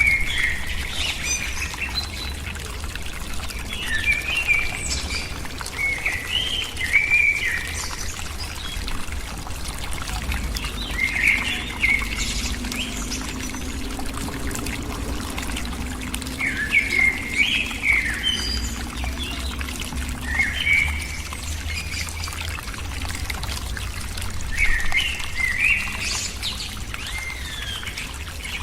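Birds calling in short chirping phrases, one every second or two, over a steady trickling of water.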